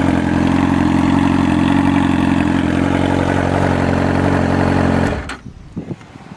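Motorcycle engine running at steady raised revs, after revving up just before, then stopping abruptly about five seconds in.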